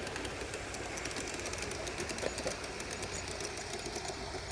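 A small machine running steadily, a whirr with many fine rapid ticks over it.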